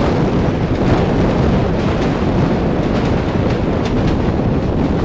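Indian Railways passenger train running on the track, heard from an open coach door: a loud, steady rumble of the coaches with a few faint clicks from the wheels.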